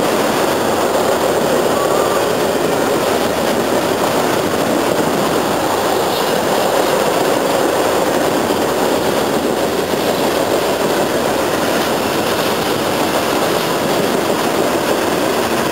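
A train going by: a steady, even rolling noise of passing cars that holds unchanged throughout.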